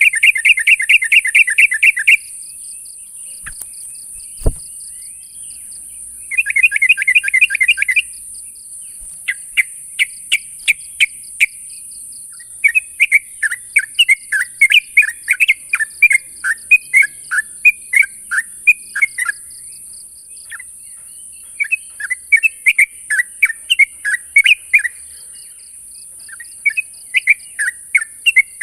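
Sooty-headed bulbul (trucukan) calling as if challenging a rival: loud bursts of quick chattering notes with short pauses between them, including fast trilled runs at the start and about six seconds in. A steady high hiss and a single knock about four and a half seconds in sit under the calls.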